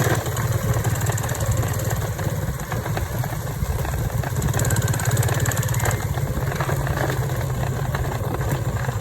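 Motorcycle engine running steadily, with no rise or fall in pitch.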